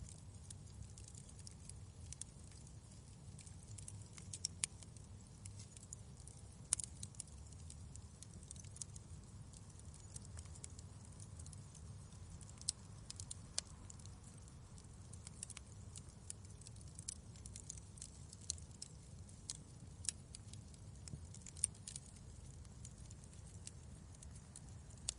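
Wood fire crackling in a fireplace: irregular sharp pops and ticks, a few louder, over a low steady rumble.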